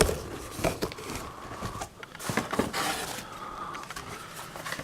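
Rustling and light clicks and knocks of packaging being handled as a carded diecast car is pulled from a box.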